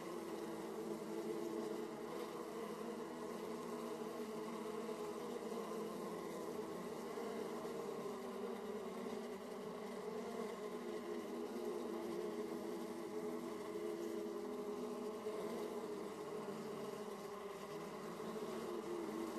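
Honeybees buzzing in numbers at a beehive entrance: a steady, dense hum of many wings at several overlapping pitches.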